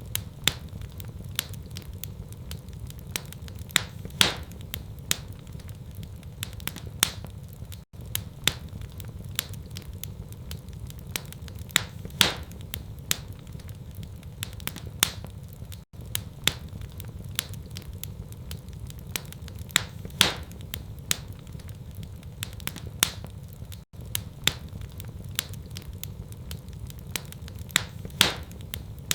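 Wood fire crackling in a fireplace: irregular sharp pops and snaps over a steady low rumble. It is a short recording looped every eight seconds, with a brief dropout at each join and the loudest pop recurring once per loop.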